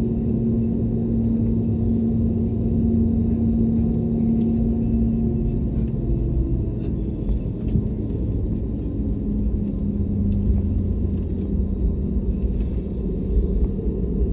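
Airbus A320neo cabin noise in flight: a steady low rumble from the engines and airflow, with a droning hum that shifts about halfway through, and a few faint clicks.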